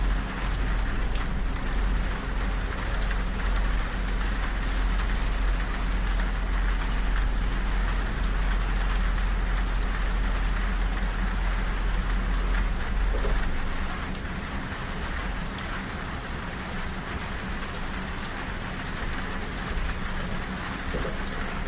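Steady rain pattering on a train window over the deep rumble of a moving passenger train; the rumble drops away about two-thirds of the way through, leaving mostly the rain.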